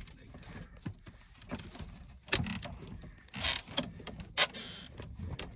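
Tools and parts being handled during an HVAC repair: scattered knocks and clicks, with a sharp knock about two seconds in, another near the end, and a brief scrape just after it.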